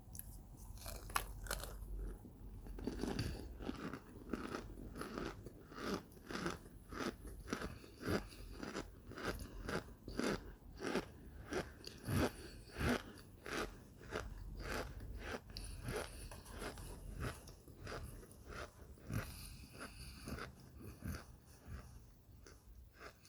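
A person chewing microwaved chunks of Kingsford cornstarch: a steady run of crunchy bites and chews, about two a second, thinning out near the end.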